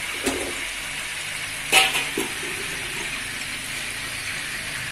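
Squid pieces sizzling and bubbling in hot oil and their own juices in a wide pan, a steady hiss. A single sharp clink sounds a little under two seconds in.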